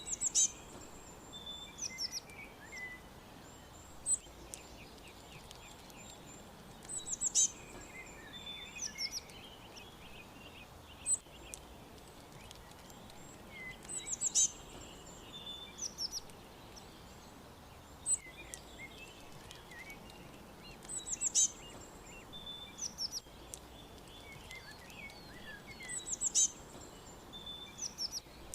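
Small songbirds chirping in high, quick notes and short down-slurred phrases. The same burst of chirps comes back about every seven seconds, with single sharp chirps between, over a steady outdoor background hiss.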